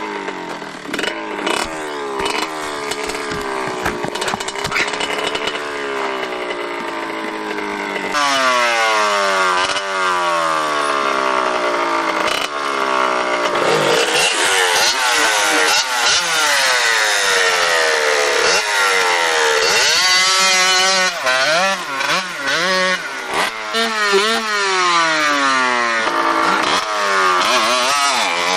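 Motorcycle engines revving, the pitch rising and falling over and over, with more than one engine sounding at once at times.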